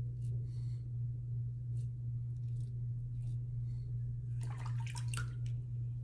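Steady low electrical hum from a light fixture, with a short cluster of wet, crackly scraping strokes of a safety razor on lathered stubble about four and a half seconds in.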